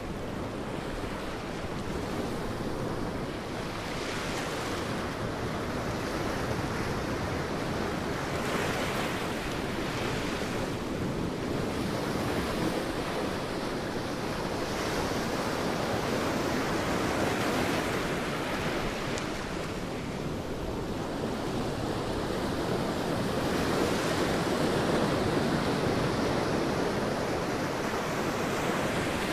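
Sea waves breaking and washing on a beach, a continuous surf hiss that swells and eases every few seconds, with some wind.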